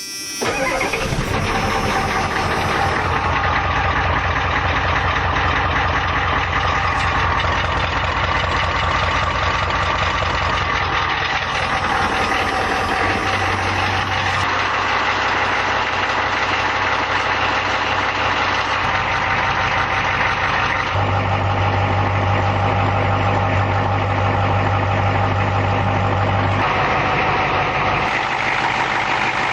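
A 6.9L IDI diesel V8 starting cold at −12 °C, catching just after the start, then idling steadily through 4-inch true dual stacks with only resonators. The tone of the idle shifts a few times.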